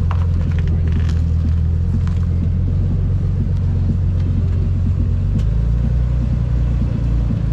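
A car engine idling close by with a steady low rumble that shifts slightly about five seconds in.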